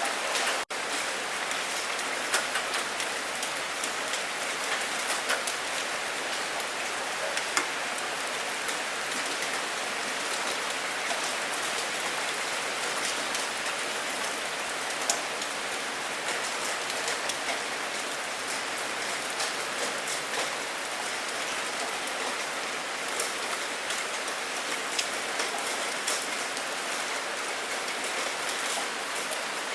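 Steady heavy rain falling, with the sharp ticks of single drops striking close by scattered through it. The sound drops out for an instant under a second in.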